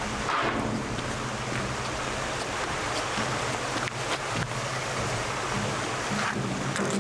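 Waterfall and river water rushing in a steady, dense roar, with some low rumble underneath.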